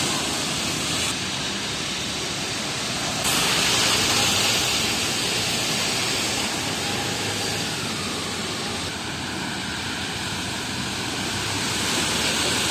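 Heavy rain pouring down in a steady hiss, mixed with traffic on the wet road. The hiss steps up abruptly about three seconds in.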